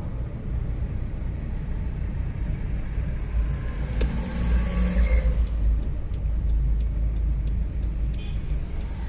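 A car running on the road: a steady low rumble of engine and road noise. A sharp click comes about four seconds in, and faint light ticks follow in the second half.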